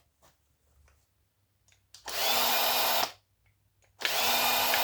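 Small power tool run in two short bursts of about a second each, about two seconds in and again near the end, a steady whine with a near-silent gap between.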